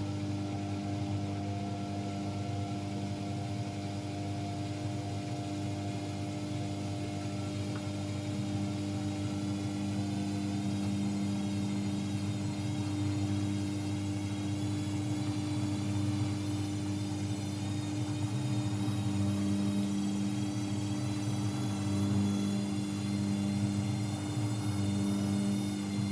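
AEG Electrolux Lavamat L74810 washing machine running, its drum motor giving a steady, even hum that grows slightly louder over the stretch.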